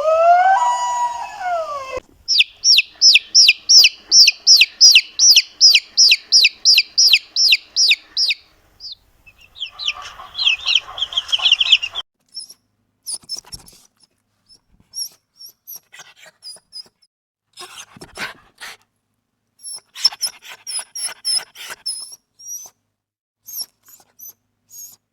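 A sequence of animal calls: a brief gliding call at the start, then a long run of fast, high repeated calls about three a second, then scattered short high chirps.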